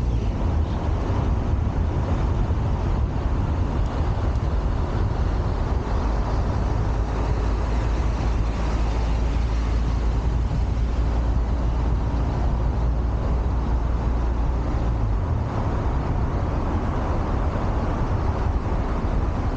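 Steady city road-traffic noise of cars and other vehicles, with a deep rumble that eases about fifteen seconds in.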